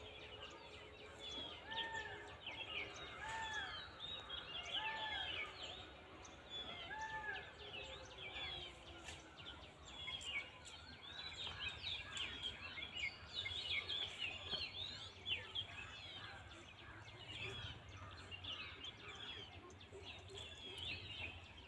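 Birds chirping, many short calls overlapping throughout, with one bird giving four arched calls about a second and a half apart in the first several seconds. A faint low drone underneath fades out about nine seconds in.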